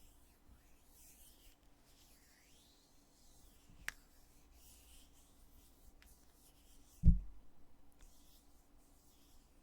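Heavy lid of a foundation cosmetics container being handled and opened and shut: faint rubbing, a sharp click about four seconds in, and a dull low thump about seven seconds in, the loudest sound.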